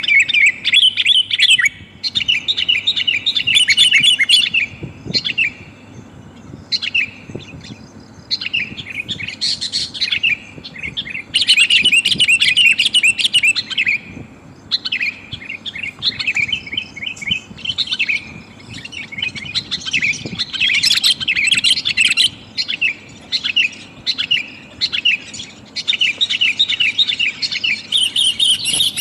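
Sooty-headed bulbul (kutilang) calling in bouts of rapid, chattering notes broken by short pauses. It is offered as a female calling for a male.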